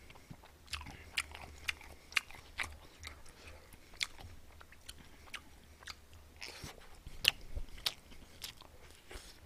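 Close-miked chewing with irregular sharp lip smacks and wet mouth clicks: a person eating rice and grilled spicy chicken.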